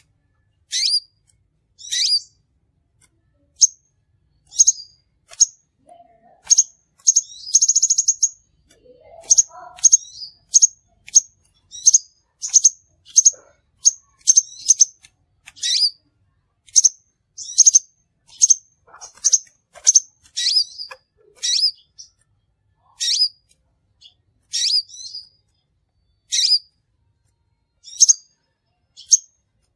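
Crimson sunbird calling: sharp, high chips repeated about once or twice a second, with a short rapid trill about eight seconds in.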